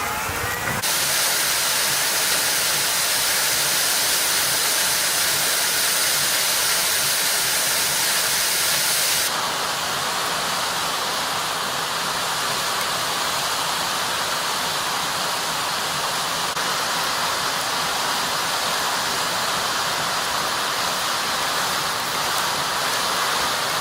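Steady rushing noise with no separate events or tones. Its character shifts abruptly about a second in and again near ten seconds.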